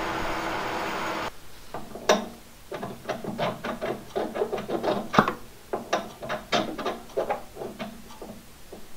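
A steadily running shop machine cuts off suddenly about a second in. It is followed by an irregular string of sharp clicks and knocks, as of small mechanical parts being worked by hand.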